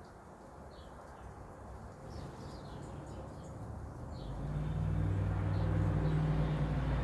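Small birds give short, faint chirps. About four seconds in, a low, steady engine hum, most likely a passing motor vehicle, comes in and grows louder than the birds.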